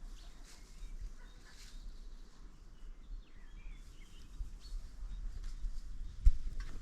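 Faint bird chirps over a steady low rumble of wind on the microphone, with one sharp knock near the end.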